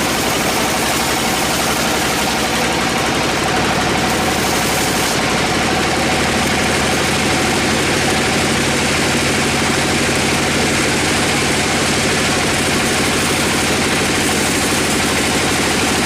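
Sawmill machinery running steadily, a constant engine-like drone.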